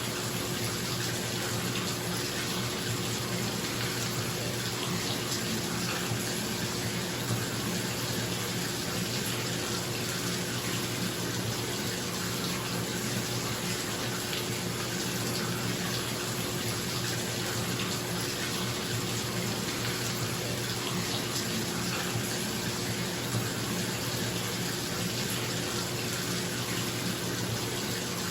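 Bathtub tap running steadily, water splashing into the filling tub, with a bathroom exhaust fan humming underneath.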